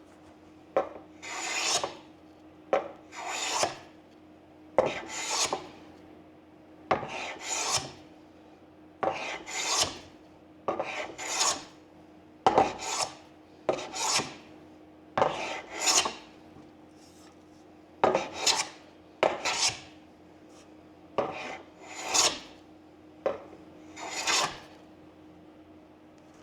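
Hand plane being pushed in repeated strokes along the wooden butt of a snooker cue, shaving down the splice area: about one stroke every two seconds, each starting with a sharp tap and swelling into a scraping hiss.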